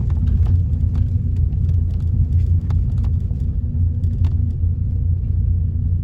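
A car driving, with a steady low rumble of engine and road and frequent small clicks and knocks over it.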